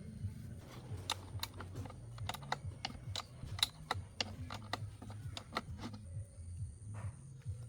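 A fast, irregular run of sharp clicks and taps over a low steady hum; the clicks stop about six seconds in.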